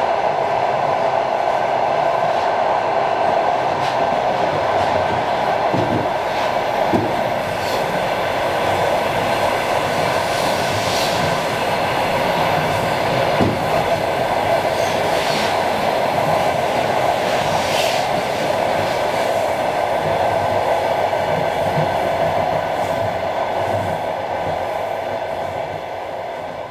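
Long-distance passenger train running steadily: a continuous rumble of the wheels on the rails with scattered clicks and knocks, fading out near the end.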